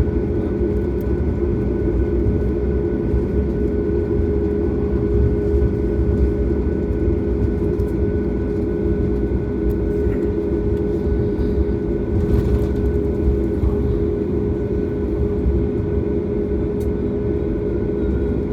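Steady drone of a Boeing 737 MAX's CFM LEAP-1B engines at low power, heard inside the cabin while taxiing, with a low rumble and a few held tones.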